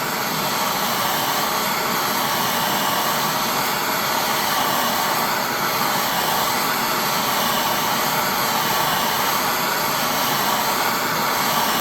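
Propane torch flame burning with a steady hiss, heating a bent motorcycle wheel rim to straighten it, with a slow wavering in its tone as the flame is moved over the metal.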